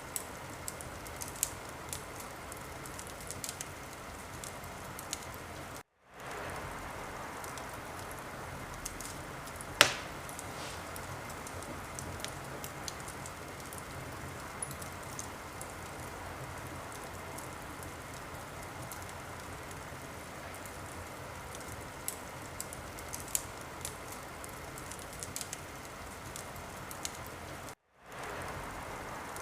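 Wood fire crackling in a fireplace: a steady hiss full of small irregular pops, with one loud pop about ten seconds in. The sound cuts out briefly twice, about six seconds in and near the end, and fades back in each time.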